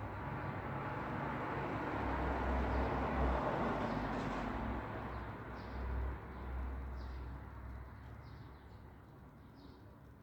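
A road vehicle passes: tyre and engine noise with a low rumble swells to a peak about three seconds in, then fades away. Short bird chirps repeat every second or so as it dies down.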